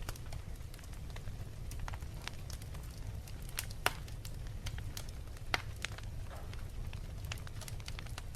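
Fire in a fireplace crackling, with irregular sharp pops over a steady low rumble; two pops near the middle stand out louder than the rest.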